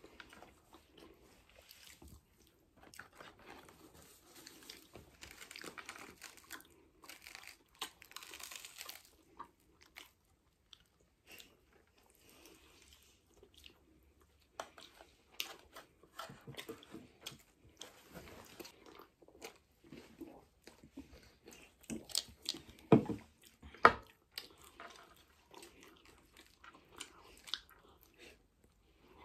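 Close-miked chewing and biting of a slice of pizza, with soft wet mouth sounds and small crunches scattered throughout. Two louder knocks come about three quarters of the way through.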